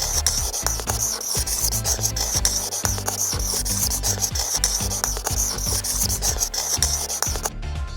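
A rapid, scratchy rubbing sound with a steady hiss, over low bass notes from a cartoon soundtrack. It stops briefly near the end.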